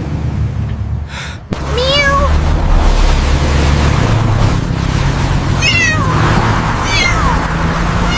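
Kitten meowing several times, each meow falling in pitch, over a steady low rumble.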